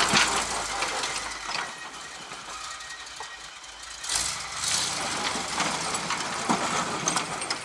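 1981 GMC C7000 dump truck running as it backs up with its snow plow blade still down, the plow hydraulics failing to lift it; the sound gets louder again about four seconds in.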